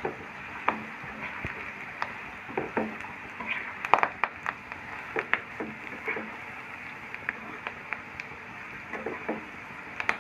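Potato pieces frying in oil in a pan with a steady sizzle, while a spoon or spatula stirs them, clicking and scraping against the pan many times.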